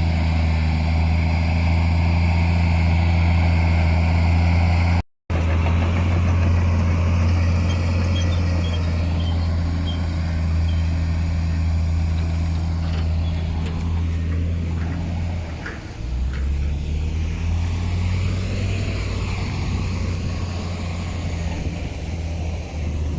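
Heavy diesel earthmoving machinery running steadily, its engine note cut off by a brief gap about five seconds in. The note drops lower about two-thirds of the way through.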